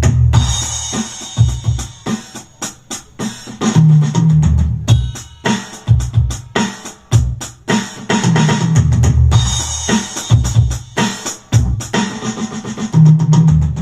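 Electronic drum-kit sounds from a Roland SPD-30 Octapad played as a repeating beat: deep kick hits under sharp snare and rim strokes, the pattern coming round about every four and a half seconds.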